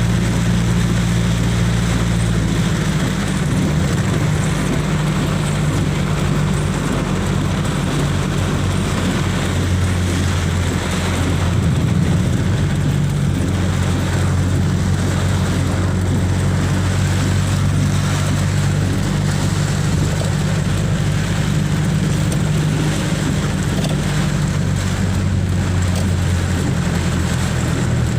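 Motor vehicle engine running steadily, its low hum shifting in pitch a few times, under a constant hiss.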